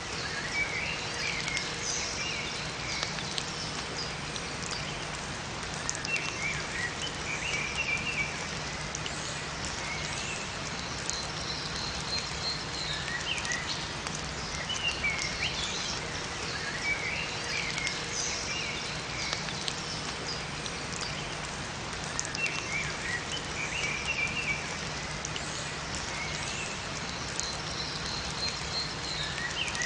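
Steady rain falling in a forest, with small birds chirping and singing in short phrases that recur every few seconds.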